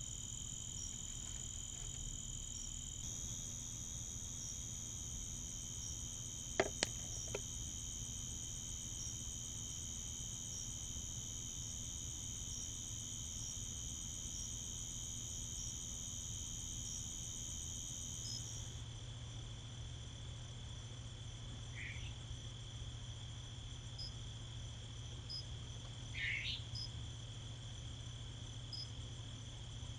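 Chorus of crickets and other night insects: a steady, high, two-pitched trill with a short chirp repeating about every second and a half. Three sharp clicks stand out about six and a half seconds in, and two brief rising calls come later.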